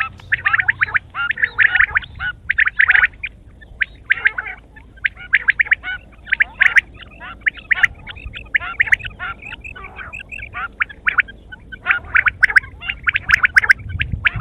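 Quail calling in quick runs of short, rapid notes, one chattering burst after another with brief pauses between.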